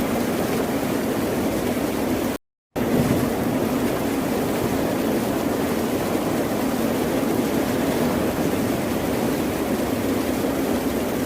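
Ocean waves in a steady, even wash, with a brief cut to dead silence about two and a half seconds in.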